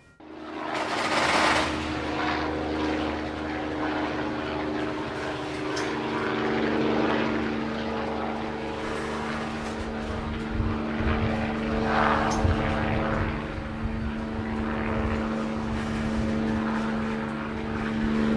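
Loaded aluminum coal hopper cars rolling slowly past, their steel wheels rumbling on the rail, under a steady droning hum. The sound starts abruptly, with brief louder rushes about a second in and again near the middle.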